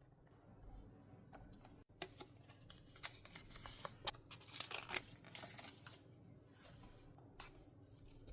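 Paper crafting on a desk: crisp paper handling with sharp clicks and snips, busiest from about two to six seconds in.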